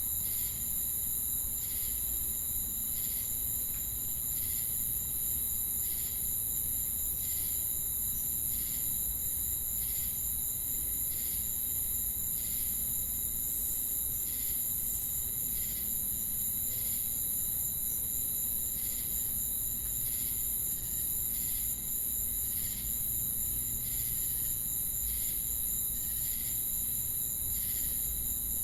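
Crickets and cicadas chorusing: a continuous high-pitched shrill with steady ringing tones, and a short chirp repeating about once a second.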